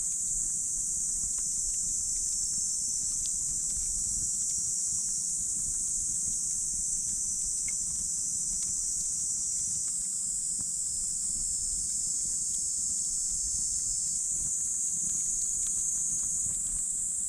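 Campfire burning with faint, scattered crackles, under a steady high-pitched hiss and a low rumble.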